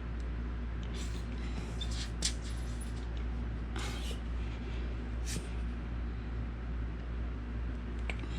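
Brief rustles and a sharp click of small craft pieces being handled, over a steady low hum.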